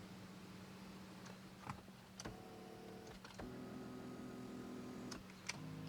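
Power seat motors of a 2011 Cadillac STS driver's seat running in three short bursts, a steady whine that starts and stops with a click each time, as the seat is moved with its rebuilt front elevation gearbox. A steady low hum lies underneath.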